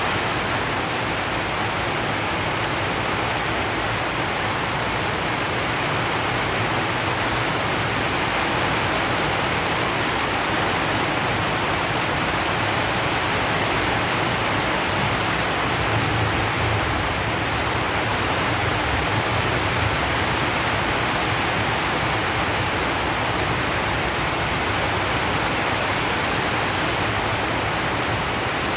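Steady rain on a zinc sheet roof: an even, unbroken hiss.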